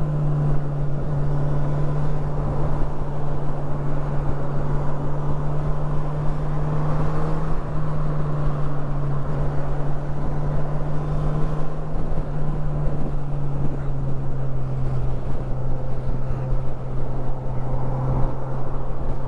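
Honda CB1000R's inline-four engine running at a steady road speed, a constant drone that holds nearly the same pitch throughout, over a low rush of wind.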